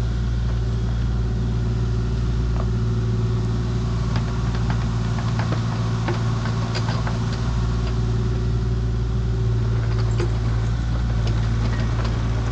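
Diesel engine of a compact construction machine running steadily, with scattered light clicks and knocks over it.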